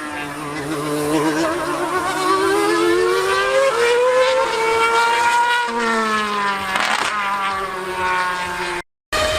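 Racing car engine revving, its pitch climbing and falling as it accelerates and lifts off. The sound breaks off abruptly for a moment near the end.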